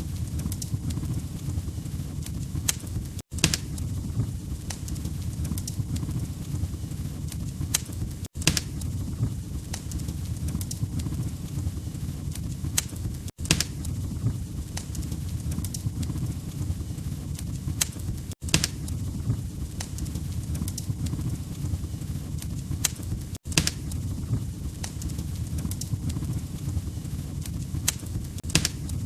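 Log fire crackling in a fireplace: a steady low rumble of flames with scattered sharp pops. The sound cuts out for a split second about every five seconds.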